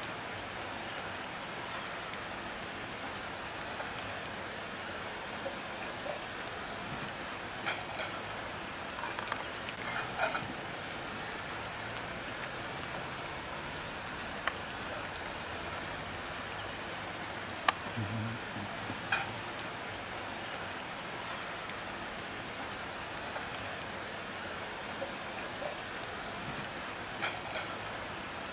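Steady rain falling on leaves, with a few short high chirps scattered through it and a single sharp click about two-thirds of the way in.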